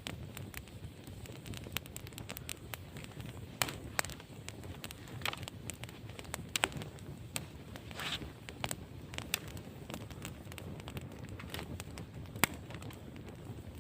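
Campfire crackling: irregular sharp pops and snaps from burning wood over a steady low rush.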